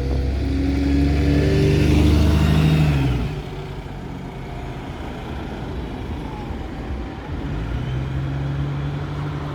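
Bus engine pulling away, its note rising for about three seconds before it drops and falls quieter; a steadier engine hum comes in again near the end.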